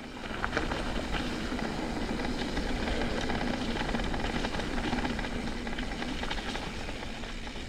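Mountain bike riding down a wet dirt trail: a steady rush of tyre and wind noise with scattered small clicks and rattles from the bike, starting up about a third of a second in.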